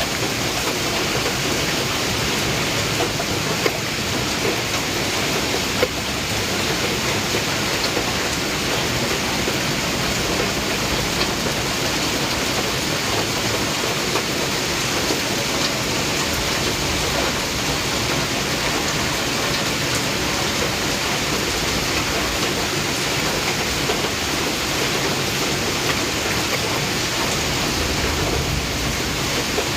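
Heavy rain falling steadily during a thunderstorm, an even, unbroken hiss, with two brief clicks about four and six seconds in.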